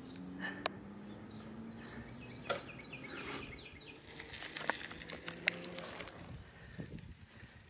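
Small birds chirping in quick short notes, loudest in a run about two to three and a half seconds in, over a faint steady low hum. A few sharp clicks and light scuffs stand out between the chirps.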